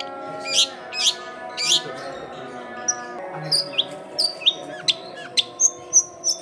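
Long-tailed shrike (cendet) singing: a rapid string of sharp, high chirps and short down-sweeping notes, coming thicker in the second half, over steady held tones in the background.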